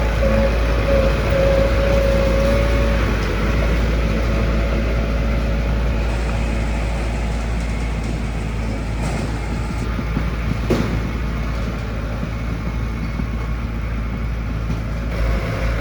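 Heavy diesel construction machinery running steadily, with a whine over the first three seconds and a single knock about eleven seconds in.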